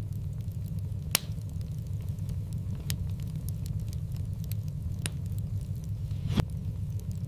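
Fireplace wood fire burning with a steady low rumble and scattered sharp crackles and pops, the loudest about a second in and again near the end.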